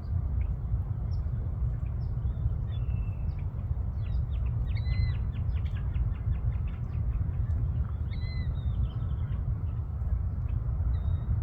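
Birds chirping and calling over a steady low rumble, with a quick run of chirps about five seconds in and short arched whistles around five and eight seconds in.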